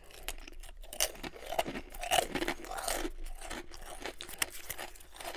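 Fortune cookie crunched and chewed close to the microphone: a run of irregular crisp crunches.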